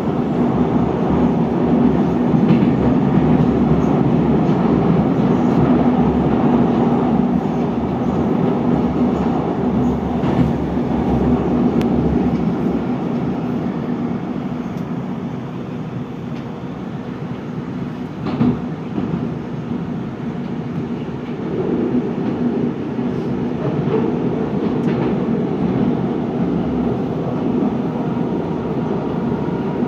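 Running noise of a Moscow metro 81-740.1 articulated train heard from inside the car, moving between stations: a steady rumble with a low hum, dipping a little past the middle, and a few single sharp knocks from the wheels on the track, the loudest about two-thirds through.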